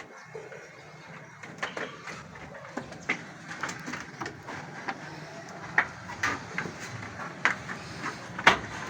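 Goats moving about on a raised slatted shed floor: irregular sharp taps and clacks, with a few louder knocks in the second half.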